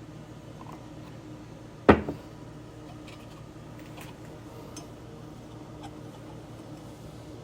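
A steady low appliance hum, with one sharp knock about two seconds in and a few faint ticks after it.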